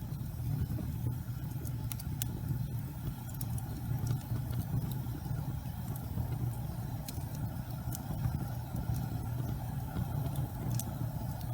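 Gas fireplace flames burning with a steady low rumble, dotted with sparse sharp crackles and pops.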